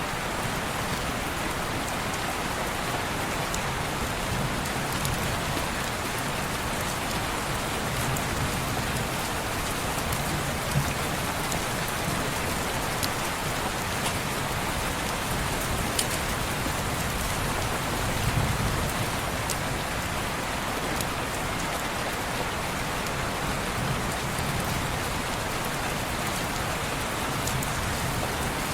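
Steady heavy rain falling on window glass, an even hiss with a few sharp ticks now and then.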